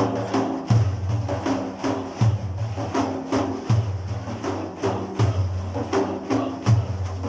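Instrumental break in devotional chant accompaniment: hand percussion with tambourine jingles beating a quick, steady rhythm over held low notes.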